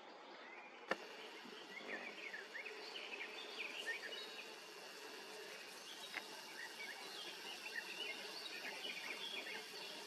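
Song thrush singing: runs of short, varied chirping notes. A single sharp click about a second in.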